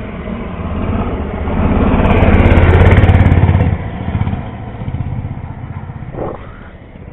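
Mini bike's small engine running as the bike passes close by: it gets louder over the first few seconds, is loudest around the middle, then falls off and fades as the bike moves away.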